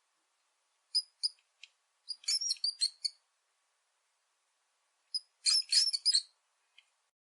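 Mouse squeaking: short, high-pitched squeaks in three groups, a couple about a second in, a rapid run around two to three seconds, and another run near six seconds.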